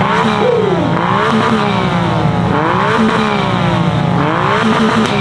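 Modified car engine revved hard over and over on a rev battle, the pitch climbing and dropping about once every second and a half.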